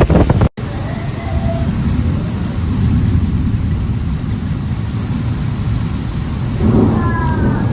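Heavy rain pouring, with a deep continuous rumble underneath. The sound cuts out abruptly for an instant about half a second in.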